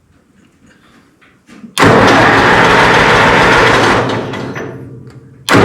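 Minneapolis-Moline Z tractor engine being cranked over on its starter with the choke on, without catching. There are two cranking runs: the first starts about two seconds in and dies away, and the second begins near the end. The engine is short of fuel, which is only dripping slowly through to the sediment bowl.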